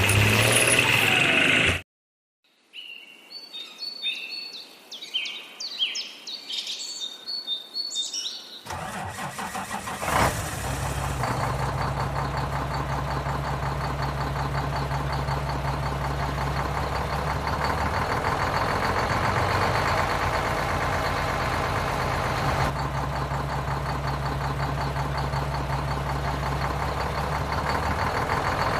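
Several seconds of high chirping, then a vehicle engine starts up about nine seconds in and keeps running steadily with a low, even hum.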